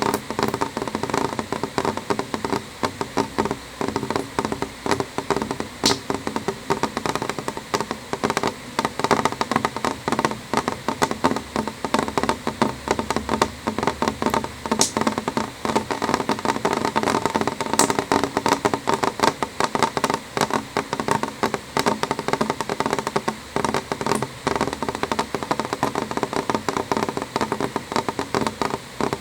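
Rain on a window: a steady, dense patter of drops tapping on the glass, with a few sharper single ticks standing out now and then.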